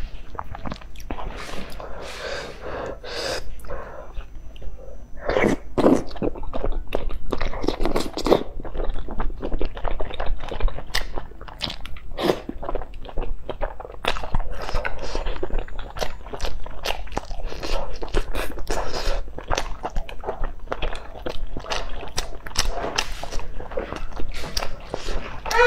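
Close-miked eating sounds: a person biting and chewing pieces of spicy hot-pot food, with many sharp, irregular mouth clicks and smacks.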